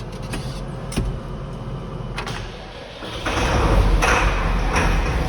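Truck door and cab clicks with a steady chime, then the truck's engine cranking and starting about three seconds in and running steadily after a night inside, starting without complaint.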